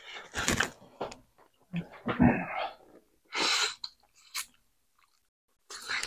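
A person eating close to the microphone: separate bursts of chewing and mouth noises, about a second apart, with one short sharp click a little past four seconds in.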